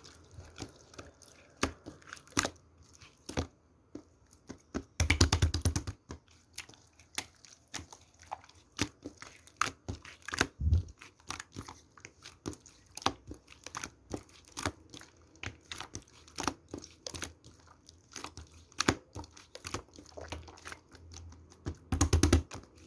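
Slime being squeezed and stretched by hand, giving irregular sticky clicks and pops, with spells of rapid crackling about five seconds in and again near the end.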